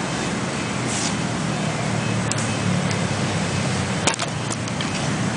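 A car engine running steadily at a low, even speed, with a few sharp clicks about four seconds in.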